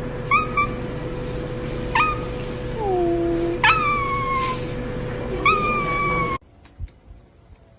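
A young pet gives about five high cries, each jumping up sharply and then sliding slowly down in pitch, over a steady hum. The sound cuts off suddenly about six seconds in.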